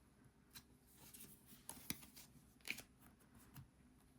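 Tarot cards being flipped and handled, heard as a few faint, short clicks and rustles over near silence.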